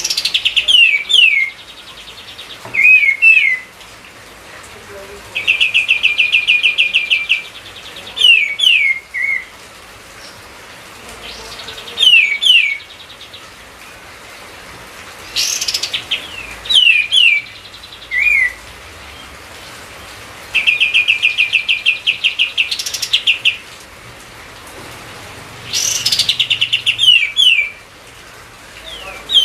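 A kapas tembak songbird singing actively, one loud phrase every few seconds: some are fast trilled rattles of repeated notes lasting a second or two, others short runs of quick downward-sweeping whistles.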